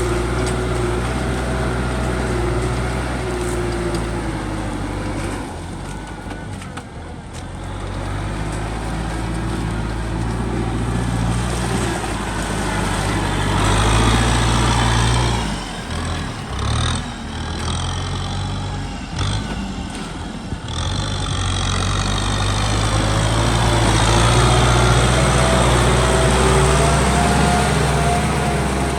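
Kubota M6040 tractor's diesel engine running steadily while plowing in mud, its note wavering and dropping for a few seconds midway before settling back.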